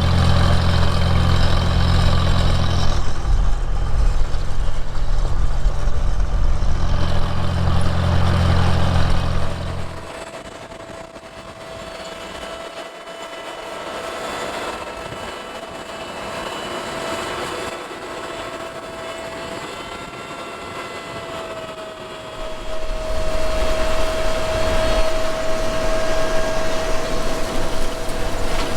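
Farm tractor engine running, towing a seed wagon. A loud low drone for about the first ten seconds drops to a quieter run with a steady whine, then comes up louder again near the end.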